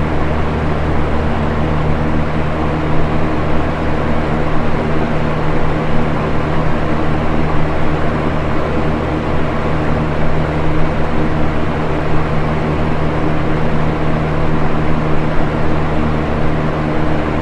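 Electric box fan running steadily, a constant rush of moving air over a low motor hum.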